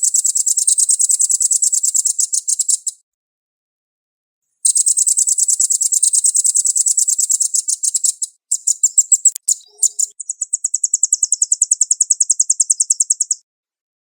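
Velvet-fronted nuthatch (red-billed nuthatch) singing very fast, tight trills of high repeated notes. There are three trills of a few seconds each with clean silent gaps between them, and a few choppier notes come just before the last one.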